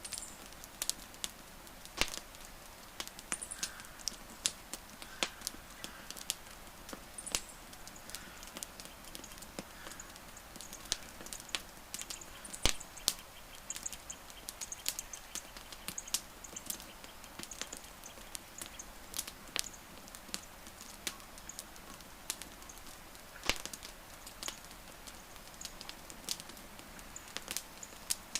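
Wood fire crackling: irregular sharp pops and snaps over a steady soft hiss, one louder snap about halfway through. Faint short high chirps come and go in the background.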